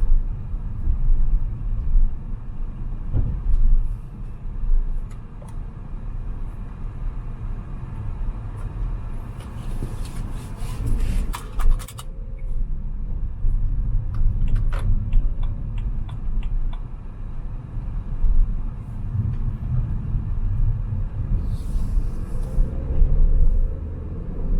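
Car driving through town, its engine and tyres making a steady low rumble, with a run of sharp clicks about ten seconds in.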